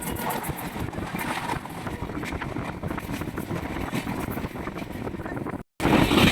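Passenger train running, heard from inside the carriage: a steady rumble with rattling and clatter. The sound drops out for an instant near the end and comes back louder.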